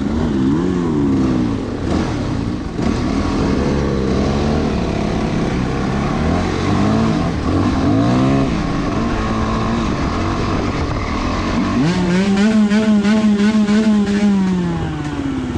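Dirt bike engine under way on a trail, its revs rising and falling with repeated throttle changes, then held higher and fairly steady for about three seconds near the end before easing off.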